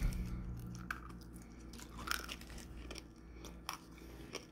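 Someone biting and chewing a soft gummy candy rope coated in crunchy Nerds, heard as scattered small crunches and wet clicks.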